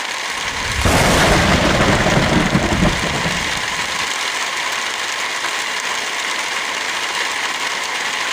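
Heavy rain falling steadily, with a roll of thunder about a second in that rumbles for two to three seconds and dies away.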